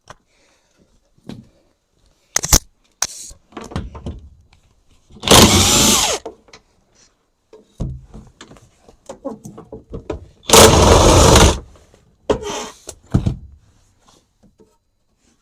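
Power impact wrench zapping out two fender bolts: two bursts of about a second each, one about five seconds in and one about ten and a half seconds in. Scattered clicks and clanks of the tool and metal parts being handled in between.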